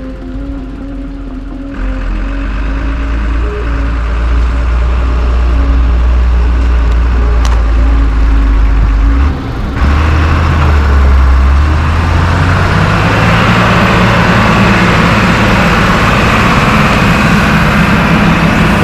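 Iveco Eurocargo 4x4 truck's diesel engine running as the truck drives, getting louder over the first few seconds. There is a brief dip about halfway through, then the engine runs on louder with more road noise.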